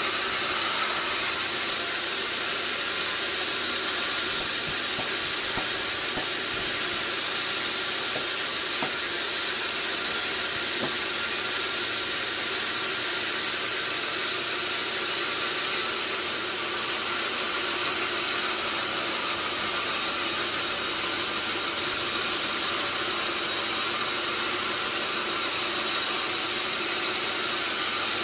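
Sawmill machinery running steadily, an even high-pitched hiss that holds at one level throughout.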